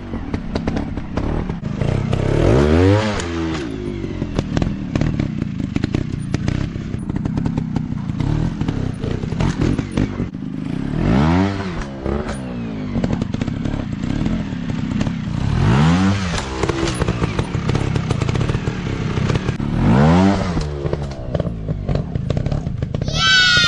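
Dirt bike engine with the throttle opened in short bursts every four to five seconds, its pitch rising and falling each time, over steady clattering and knocking. Near the end a higher engine whine sweeps sharply up in pitch.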